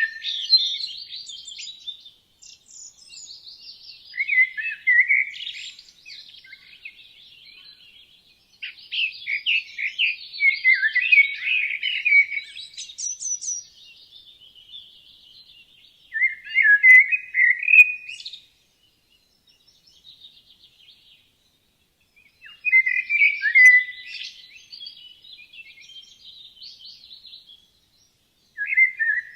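Songbirds singing in a forest: phrases of quick, high chirps and trills come in bouts of a second or a few seconds, with short pauses between. The loudest phrase comes a little past the middle.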